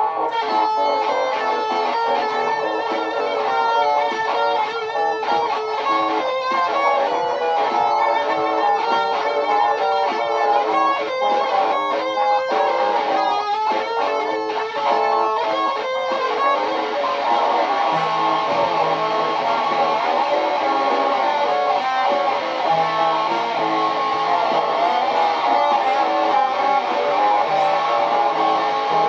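Layered, looped electric guitar parts playing together: busy picked notes at first, then about two-thirds of the way through a denser sustained wash with low bass notes coming in and out.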